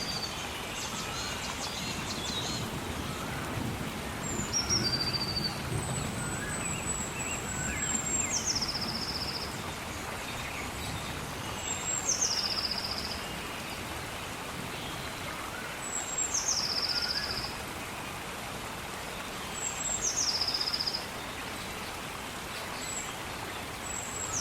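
Gentle rain falling steadily while a bird repeats the same short song about every four seconds: a high held whistle that drops into a quick trill. Fainter chirps from other birds sound lower down.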